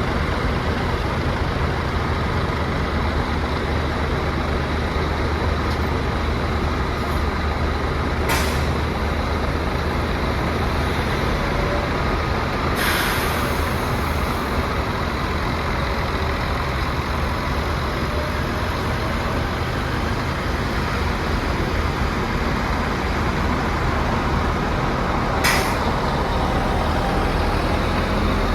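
A Scania tour coach's diesel engine running steadily, with three short hisses of air from its air brakes: one about a third of the way in, a longer one at about the middle, and one near the end.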